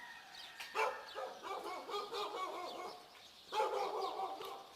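A dog barking and yelping in two long runs of calls, with small birds chirping.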